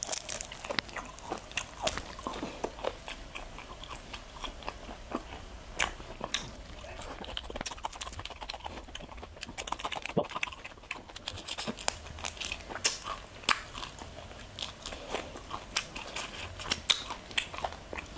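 Close-miked chewing and crunching of crispy chicharon bulaklak (deep-fried pork mesentery), with sharp crackles scattered irregularly throughout.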